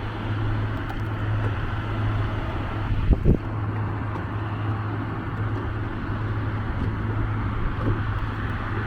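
Steady low hum of a boat's engine running, with wind noise, and a short thump about three seconds in.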